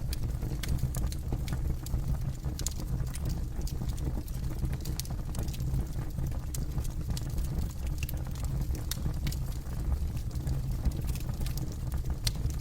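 Wood campfire crackling: frequent irregular sharp pops and snaps over a steady low rumble of the burning fire.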